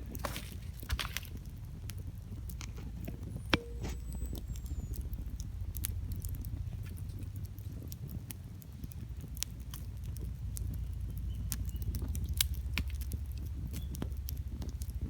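Wood campfire crackling, with scattered sharp pops from the burning firewood, the sharpest about three and a half seconds in and again near the end, over a steady low rumble.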